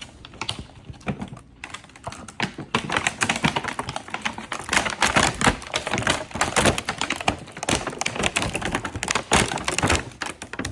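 Packaging of a toy box being torn open and handled by hand: a dense, irregular run of sharp crackles and clicks, growing thicker about two seconds in.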